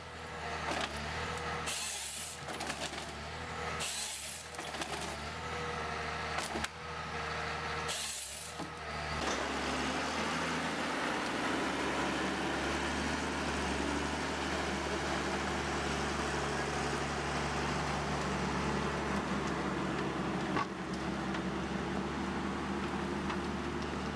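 An engine-driven machine running steadily, with short hissing bursts about every two seconds at first; from about nine seconds in, a denser, steady working noise takes over.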